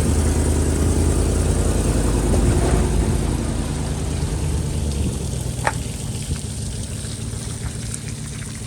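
Boat motor running under a steady hiss. The engine sound drops away about five seconds in, leaving the hiss, and a brief high chirp sounds shortly after.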